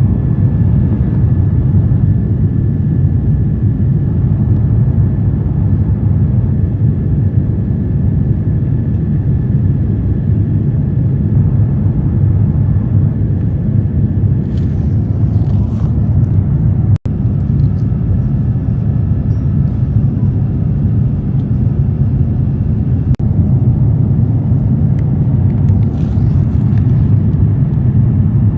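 Steady, loud cabin rumble of an Airbus A350-1000 in flight, engines and airflow heard from inside the economy cabin, with a faint steady high tone over it. The sound cuts out for an instant about halfway through.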